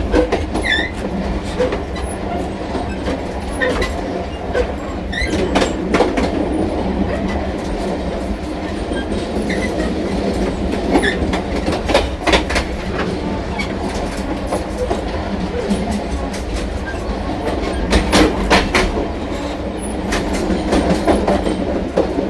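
Train running along the track: a steady low rumble, with sharp clacks of the wheels over rail joints at irregular moments and a few brief high squeaks.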